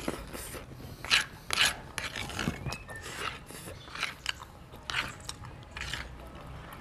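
Close-up chewing of meatballs with wet mouth sounds, mixed with a metal spoon and fork clicking and scraping on the plate; several short sharp sounds about half a second to a second apart.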